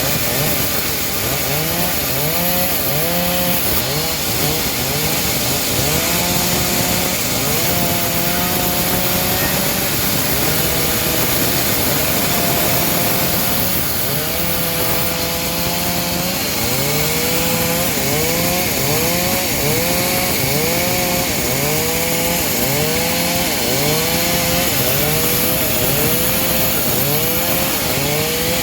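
Saw's small high-revving engine cutting teak wood. Its pitch sags and climbs back again and again under the load of the cut, with a few short stretches held steady, over the hiss of the cutting.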